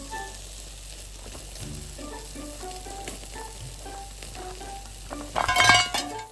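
Meat sizzling steadily on a grill over a charcoal fire, with a short, louder burst of sizzling and clatter about five seconds in.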